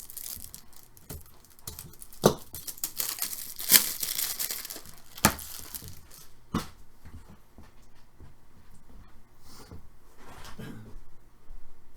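Wrapping on sealed trading-card boxes being torn and crinkled open, with several sharp knocks in the first half and lighter rustling after.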